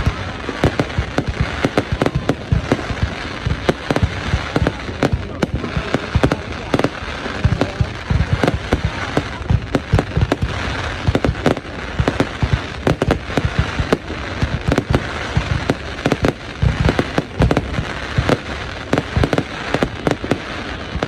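Fireworks going off in a dense, unbroken barrage: many sharp bangs and crackles a second, with deeper booms among them.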